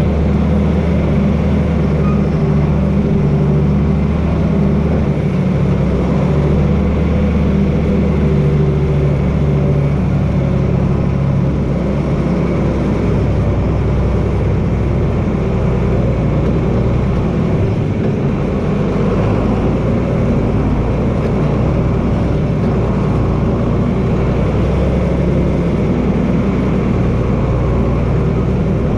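John Deere 4320 tractor's turbocharged six-cylinder diesel engine running steadily under work, its note shifting slightly about twelve seconds in and again near eighteen seconds.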